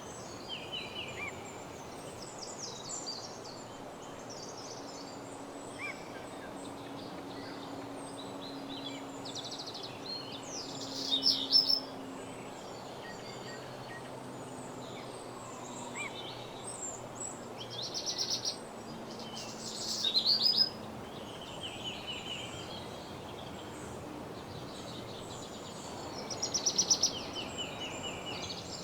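Woodland birds singing. Several birds chirp and call, and one bird repeats a loud song phrase three times, about every eight seconds; each phrase is a quickening run of notes that ends abruptly. Under the birds there is a steady background hiss.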